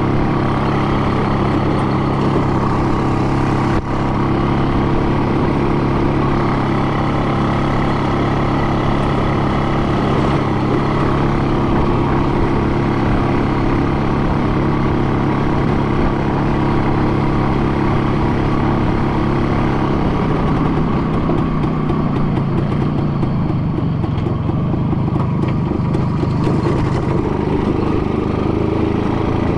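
A vehicle engine running steadily at a constant speed, becoming rougher and less even in the last third.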